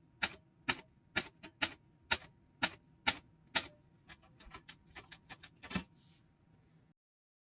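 Clicks and pops from a worn optical film soundtrack once the music has stopped: sharp single clicks about two a second, then quicker, fainter crackle, ending abruptly.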